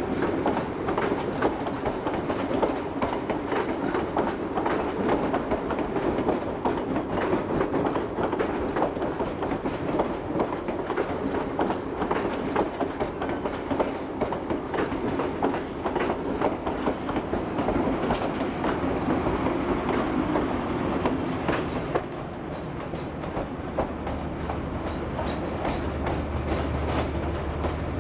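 Train running on the rails, its wheels clicking and clattering over rail joints. The clatter eases about 22 seconds in, and a low steady hum comes in near the end.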